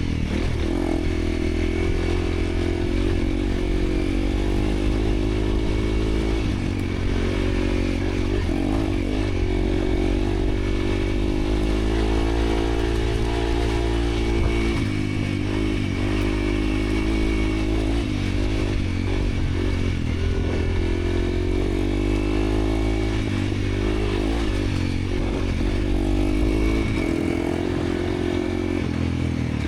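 Dirt bike engine ridden hard off-road, its pitch repeatedly rising under throttle and falling off as the rider works through the trail.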